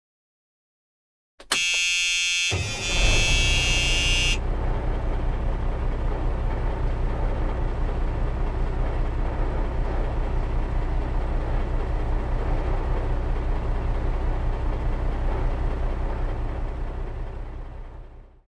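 A loud horn-like blast of about three seconds, then a steady low engine rumble with a fast even pulse that fades and cuts off near the end.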